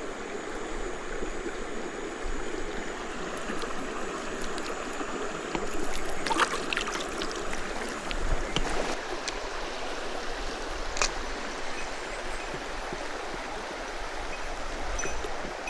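Mountain stream water running steadily over rocks, with a few short clicks or knocks about six and eleven seconds in.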